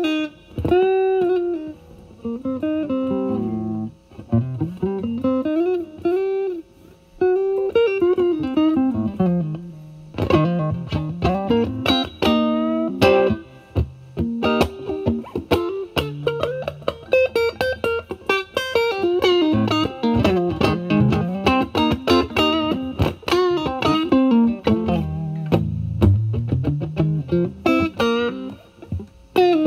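Electric guitar (Stratocaster) played through a Vertex Steel String Clean Drive overdrive pedal set to maximum gain, into a Valvestate amp's clean channel. It plays bluesy lead lines with string bends, then busier, faster runs and chords about ten seconds in.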